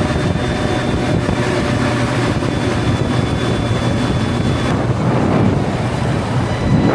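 Motorboat engine running steadily at speed while towing a tube, with wind buffeting the microphone.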